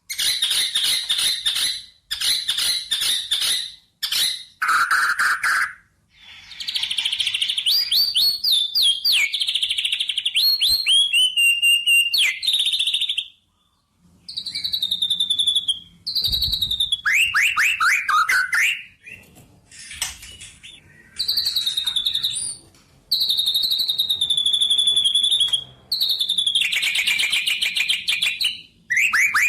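A songbird singing in separate phrases of fast trills and chattering chirps, some notes sweeping downward, with short pauses between phrases. The longest phrase runs for about six seconds near the middle.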